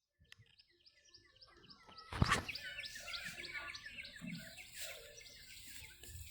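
Small birds chirping in quick repeated high notes, rising from silence over the first two seconds, with a sharp knock about two seconds in.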